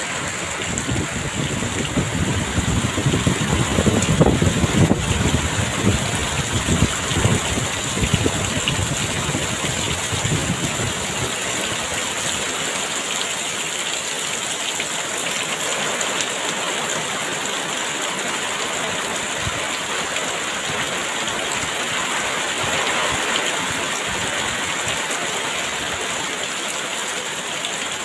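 Heavy rain falling steadily. Gusts of strong wind add an uneven low rumble and louder surges for roughly the first ten seconds, then die down, leaving the rain on its own.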